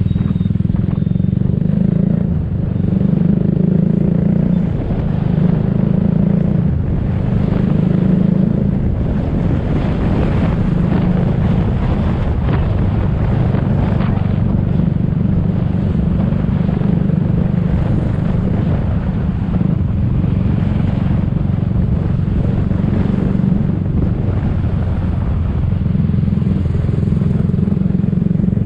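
Motor scooter riding through city traffic: a loud, steady low engine drone with traffic noise around it.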